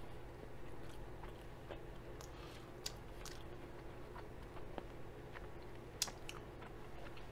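A person chewing food quietly, with scattered light clicks and scrapes of a metal fork against a foam takeout container; the sharpest clicks come about three and six seconds in.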